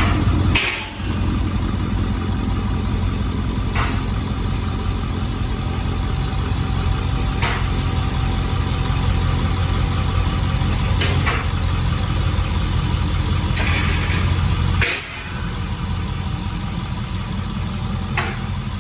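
Dodge Charger 392 Daytona's 6.4-litre HEMI V8 idling steadily with a deep low rumble, through an exhaust with the mid mufflers and resonators deleted, cats kept, so it is effectively straight-piped. A few sharp clicks are scattered through it.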